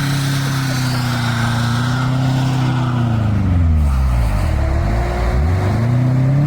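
A car engine running at high revs, with its pitch dropping a few seconds in and then revving back up.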